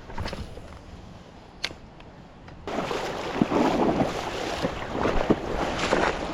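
Creek water splashing and sloshing, which gets suddenly louder about two and a half seconds in, with a few sharp knocks mixed in.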